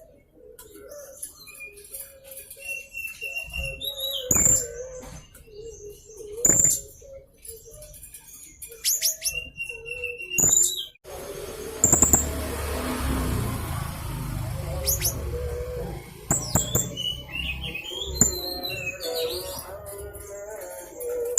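Young blue-crowned hanging parrot (serindit) calling in irregular bursts of sharp, very high chirps and short shrill whistles, over a low wavering tone. A stretch of hiss comes in about halfway through.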